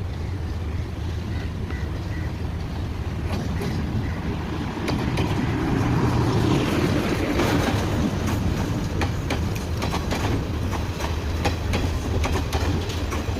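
Class S9 diesel multiple unit running along the track, with a steady low diesel hum. Its wheels clatter over the rail joints in a rapid run of clicks that sets in a few seconds in, and the sound grows louder about five seconds in.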